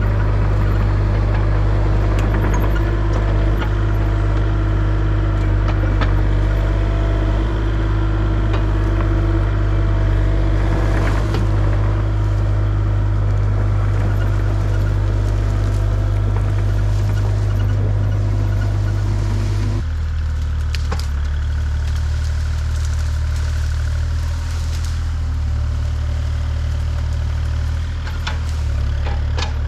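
An engine running steadily at a low pitch, with scattered knocks and clatter. About two-thirds of the way through it drops to a lower, slightly quieter speed.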